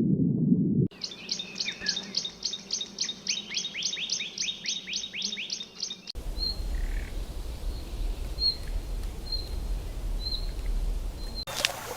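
Bird calls: a fast, even series of high notes, each sliding downward, about four a second. After an abrupt change about halfway, scattered short single chirps roughly once a second over a low rumble.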